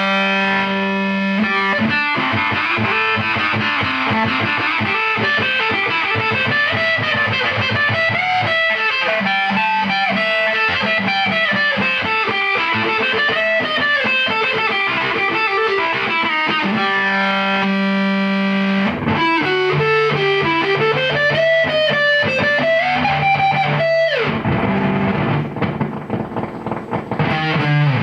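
Electric guitar through a handmade triple fuzz pedal, heavily distorted. It plays held chords, then a melody whose notes bend up and down. Near the end a note slides down in pitch and the sound goes briefly thinner and quieter.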